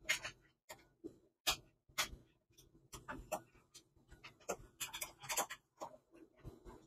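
Scattered light clicks and scrapes of wires being disconnected from the screw terminals of an electric water heater's thermostat.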